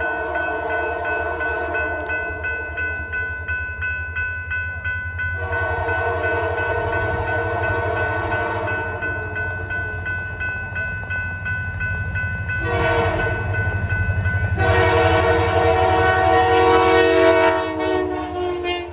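Diesel locomotive air horn sounding the grade-crossing signal, two long blasts, a short one and a long one, over the rising rumble of the approaching locomotive. A steady high ringing runs under it throughout.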